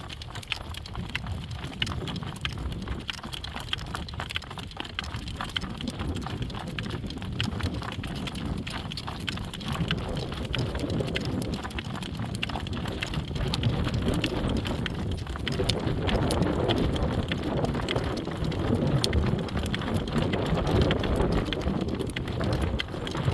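Hoofbeats of driven horses, a continuous irregular clatter, over a low wind rumble on the microphone that grows stronger about halfway through.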